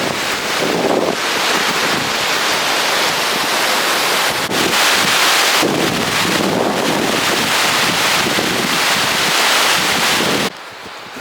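Loud rushing noise that swells and eases, cutting off suddenly near the end.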